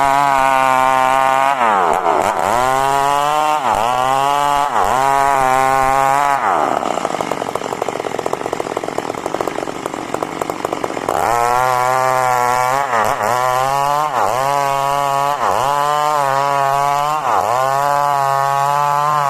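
Two-stroke chainsaw sawing coconut wood. At high revs its pitch dips and recovers about once a second. Partway through it drops to a lower, rougher speed for a few seconds, then revs back up and the dips resume.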